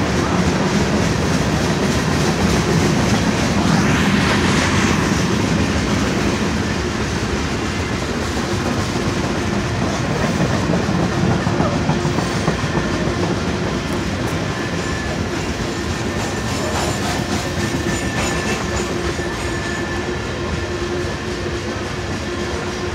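Freight train cars rolling past: boxcars and covered hoppers of a BNSF mixed freight, their steel wheels clattering steadily over the rail joints.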